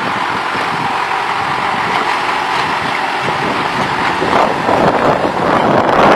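Kubota 5501 4WD tractor's diesel engine running while pulling a two-bottom mouldboard plough, getting louder from about four seconds in.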